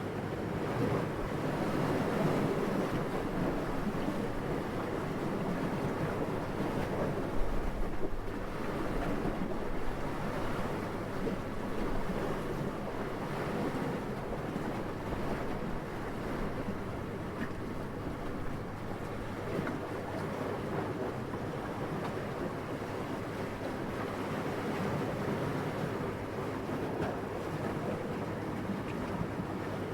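Steady rushing wind, swelling and easing slowly, with a brief low thump about seven seconds in.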